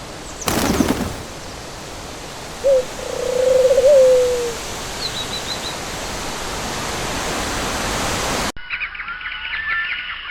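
A bird flapping its wings, then giving one drawn-out wavering call that falls in pitch at the end, over a steady hiss, with a few faint high chirps. The sound cuts off abruptly near the end as a different clip begins.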